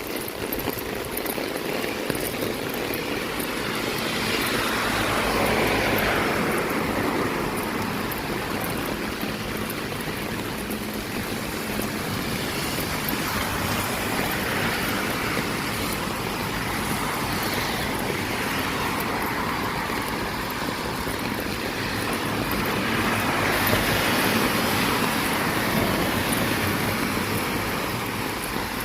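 Steady rain falling, mixed with road traffic; the noise swells twice, like vehicles hissing past on a wet road.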